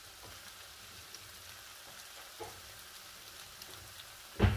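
Sliced onion, tomato and ginger sizzling gently in oil in a wok, with small scattered crackles. A single sharp knock near the end.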